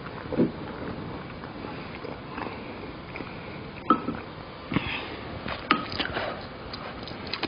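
Close-up eating sounds at a home meal: chewing and sniffing, with a few sharp clicks of utensils against a dish, one about four seconds in with a brief ring and several more in the last few seconds.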